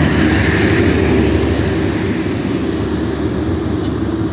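Passenger train running on the track, a steady loud rumble with a low hum.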